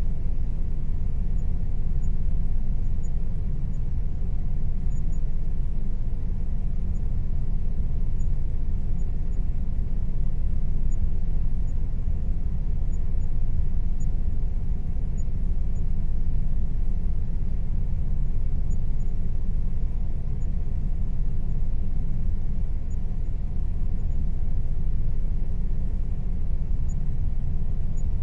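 Air conditioner running steadily: a low, even rumble with a faint constant tone above it.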